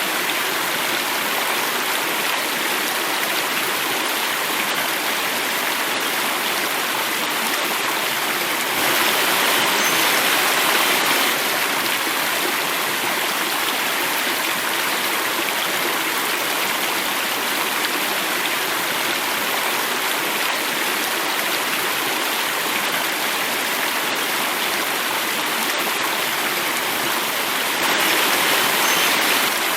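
Running water flowing and falling in a steady rush, swelling slightly louder for a couple of seconds about nine seconds in and again near the end.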